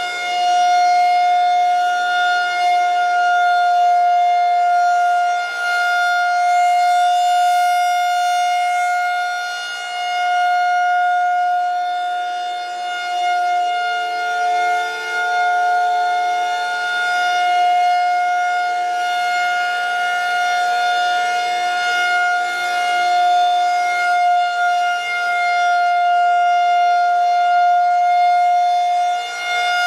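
Federal Signal 2001-130 DC rotating outdoor warning siren sounding the steady-tone Alert signal: one held pitch, swelling and fading in loudness as the horn rotates past.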